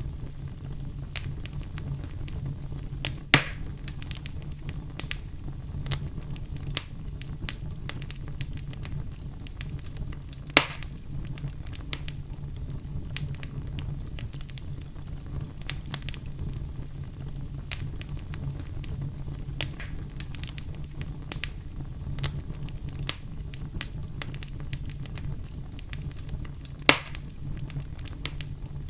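Fireplace fire crackling: a steady low rumble under a constant scatter of small crackles, with three louder sharp pops, about three seconds in, ten seconds in and near the end.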